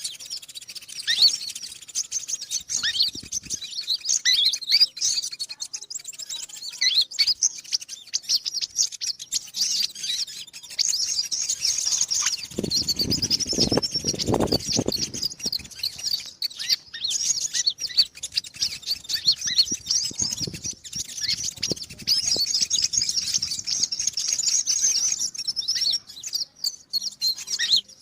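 Rapid, high-pitched twittering chirps of a sunbird, the 'konin' call used as a lure to attract wild birds. The chirps run nearly without a break. A low rumbling noise comes in for about two seconds around the middle.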